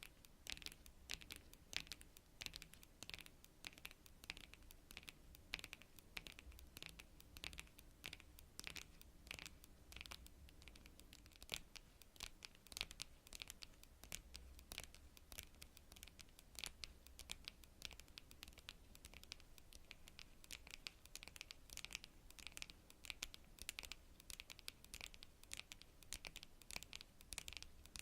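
Long natural fingernails tapping and scratching on cards: rapid, light, crisp clicks, several a second in an uneven flurry.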